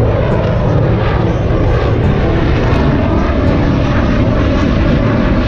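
Airplane engine noise: a loud, steady drone that does not rise or fall.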